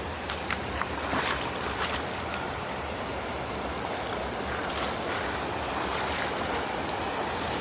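A mountain stream's water rushing steadily, with a few short, sharp sounds over it, the first about a second in.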